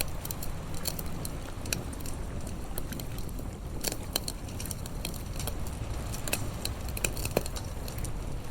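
Campfire crackling, with irregular sharp snaps and pops over a low, steady rumble; the loudest snaps come about four seconds in and near the end.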